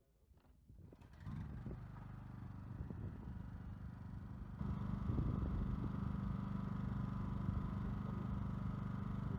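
A machine's motor starts running about a second in, steady and droning, and grows louder about four and a half seconds in.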